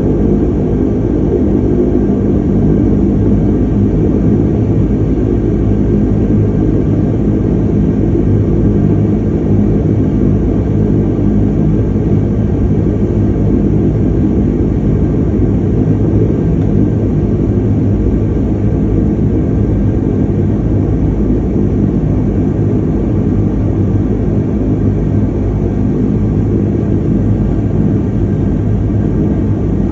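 De Havilland Canada DHC-8-200 (Dash 8) turboprop engines and propellers running steadily, heard from inside the cabin beside the propeller: a loud, even drone with several steady tones over a low rumble.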